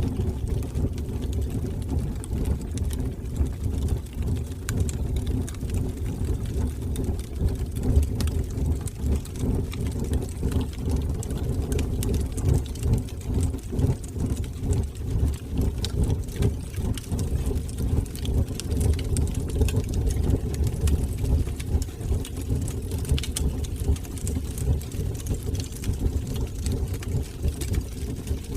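Wood fire burning in a fireplace: a steady, fluttering low rumble of flames with scattered small crackles and pops.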